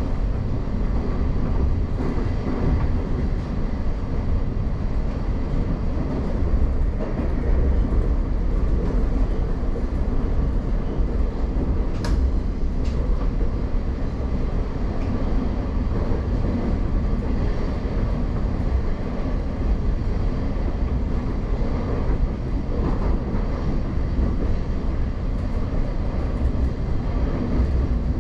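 Class 717 electric multiple unit heard from inside the carriage while running through a tunnel: a steady low rumble of wheels on rail, with a single sharp click about twelve seconds in.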